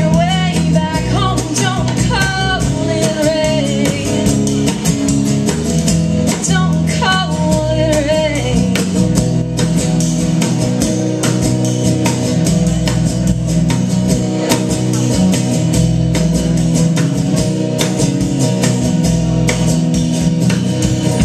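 Live band playing the song's closing instrumental stretch: guitar and tambourine over a steady sustained chord, with a sliding, bending melody line over the first several seconds.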